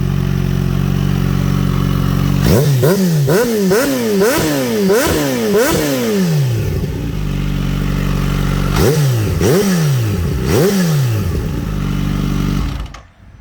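2024 Kawasaki Z H2's supercharged inline-four idling through an Akrapovic slip-on exhaust, blipped up and down in a quick run of about six revs, then idling and blipped three more times, before the sound stops abruptly near the end. The seller calls it a healthy motor.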